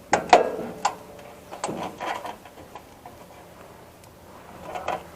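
Clicks and knocks of metal parts being handled while dismantling a server rack: a handful of sharp knocks in the first two seconds and a short clatter near the end.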